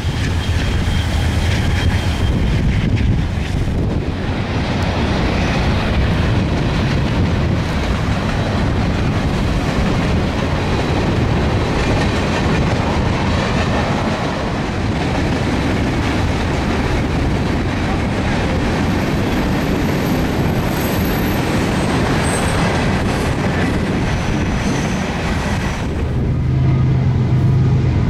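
Loaded freight train cars (hoppers and tank cars) rolling past on the rails, a steady heavy clatter and rumble of wheels on track. Near the end it gives way to a quieter, steady low hum.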